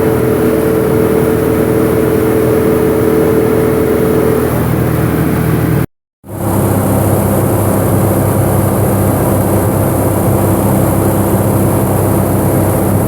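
Light aircraft's piston engine and propeller running steadily. The tone shifts a little past four seconds in, and the sound cuts out abruptly for a moment about six seconds in before coming back.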